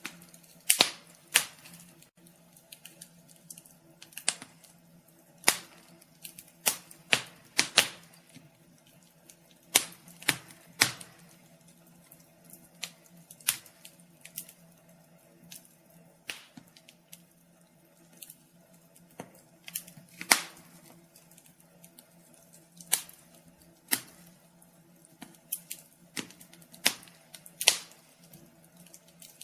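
Wood fire in a fireplace crackling, with sharp irregular pops and snaps of varying loudness over a faint steady low hum.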